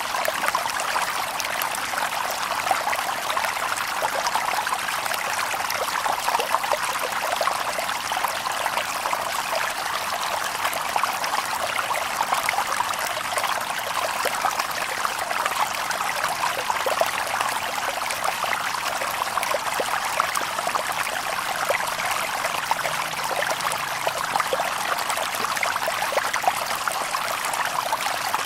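Shallow stream babbling and trickling over stones, a steady rush of water full of small splashes and gurgles, with no birds.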